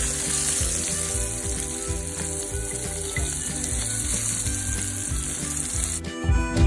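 Paneer cubes sizzling as they shallow-fry in a little hot oil in a frying pan. The sizzle cuts off suddenly about six seconds in.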